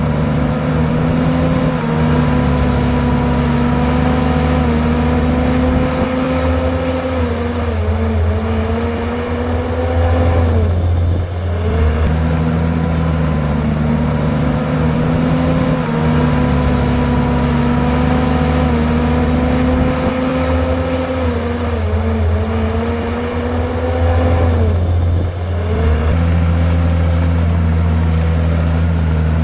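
Komatsu bulldozer's diesel engine running steadily. Twice its pitch sags, dips sharply and then climbs back up, about ten seconds in and again near twenty-five seconds.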